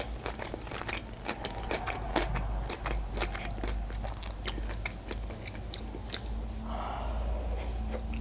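A person chewing sushi rolls with the mouth closed: a steady run of short, wet mouth clicks and smacks.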